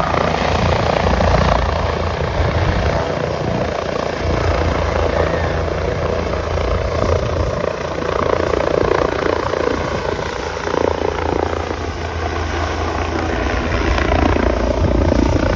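Helicopter taking off: the rotor and engine run loud and steady close by, with a fast low rotor beat that weakens in the last few seconds.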